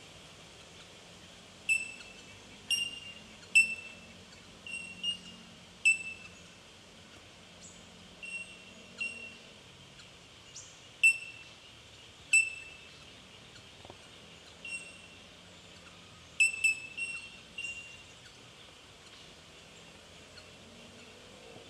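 Bell miners calling: single, bell-like 'tink' notes, each starting sharply and ringing briefly, at irregular intervals a second or more apart, with a quick cluster of several about two-thirds of the way through.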